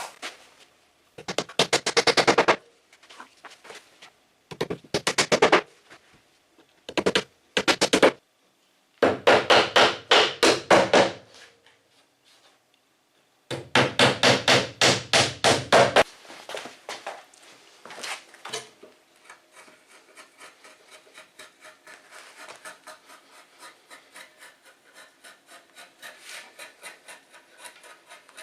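A hammer driving small nails through thin plywood into a wooden frame, in five quick runs of rapid blows. In the second half it gives way to quieter, steady rhythmic rubbing on wood.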